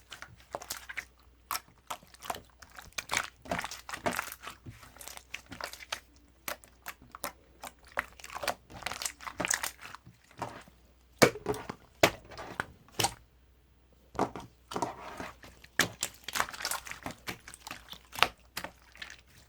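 Irregular crinkling and crackling with many scattered sharp clicks, quieting briefly about two-thirds of the way through.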